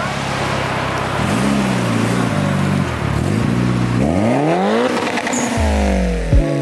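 Car engine revving hard while leaving, over exhaust noise. The pitch rises and falls a few times, then climbs steeply about four seconds in and falls off again.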